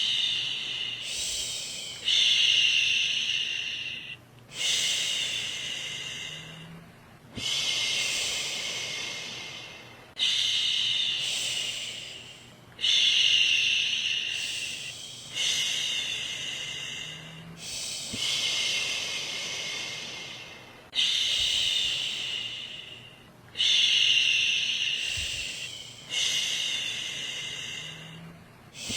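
A woman's voice shushing, a long 'shhh' made to soothe a baby to sleep. Each shush starts sharply and fades away, and a new one begins about every two and a half seconds, around eleven times.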